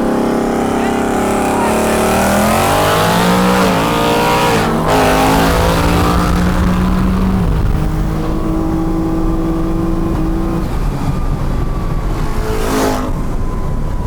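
Performance car engine accelerating hard at full throttle, its pitch climbing through the gears with a shift about five seconds in. A sharp burst of noise comes near the end, followed by a thin high whine that falls slowly.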